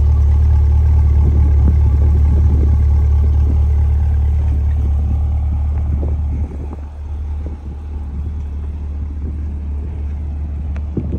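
Chevrolet Corvette C8's 6.2-litre V8 idling with a steady deep exhaust drone. It gets quieter about six and a half seconds in, and there is a short knock just before the end.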